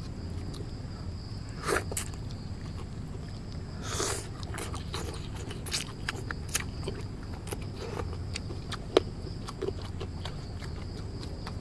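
Irregular crunches, snaps and rustles of young forest twigs being broken and chewed, with louder crunches about two and four seconds in.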